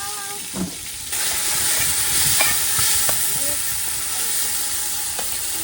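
Curry paste frying in hot oil in a pot, a steady sizzle that grows louder about a second in, with a few knocks of the spoon as it is stirred.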